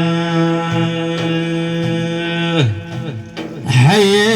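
Male voice holding one long chanted note of an Iraqi religious praise song (madih), which slides down and breaks off about two and a half seconds in; near the end a new ornamented sung phrase begins.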